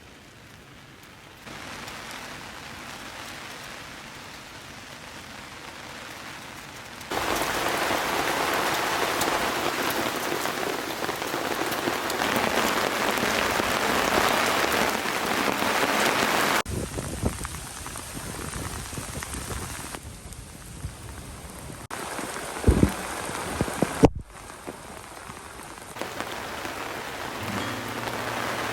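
Steady rain falling, heard as an even hiss that changes in loudness at several cuts and is heaviest through the middle. A couple of short knocks come about two-thirds of the way through.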